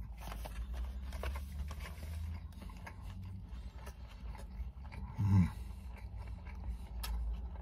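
A person chewing mouthfuls of a grilled chicken tortilla wrap at close range, with soft wet mouth clicks over a low steady hum. A short hummed "mmm" about five seconds in.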